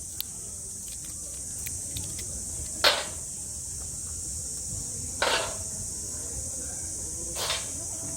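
Steady high-pitched drone of summer insects, with three short noisy sounds about two and a half seconds apart.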